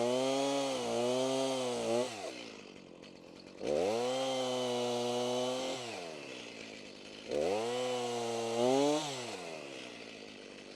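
Stihl MS290 Farm Boss two-stroke chainsaw revving up and cutting a downed branch into pieces in three bursts, the engine pitch dipping under load, then dropping back to idle between cuts.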